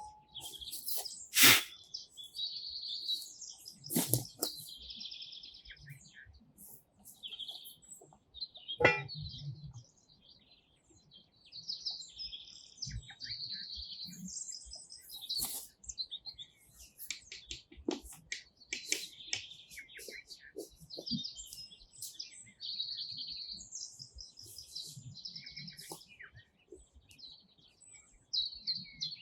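Small birds chirping and twittering throughout, with three sharp knocks: a loud one about a second and a half in, then others at about four and nine seconds.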